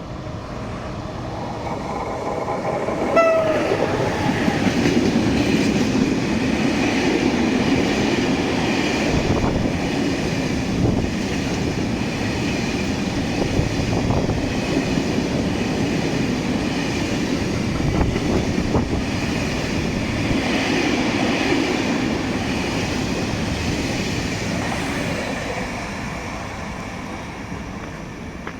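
A freight train passing through a station. Its horn gives a short blast about three seconds in, then the wagons roll by with a long, steady rumble and wheel noise that fades near the end.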